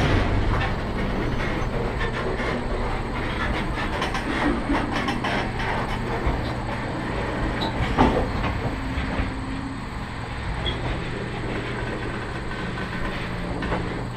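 Loaded steel gondola freight cars rolling slowly past, their wheels clattering over the rails, with sharp clanks at the start and about eight seconds in.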